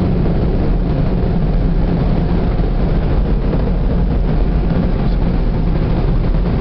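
Automatic car wash dryer blowers running, a loud steady rush of air blowing the car dry.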